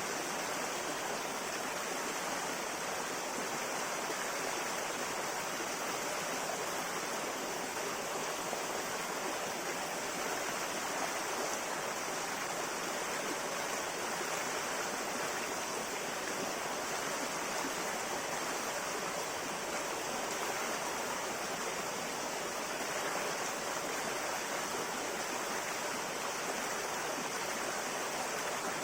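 A river of clear water flowing steadily over stones, a constant rushing and babbling without let-up.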